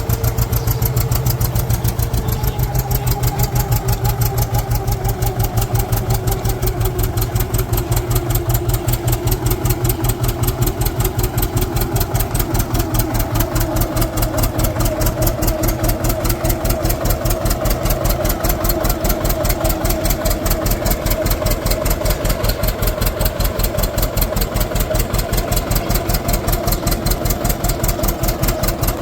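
Engine running steadily with an even, rapid beat of firing pulses.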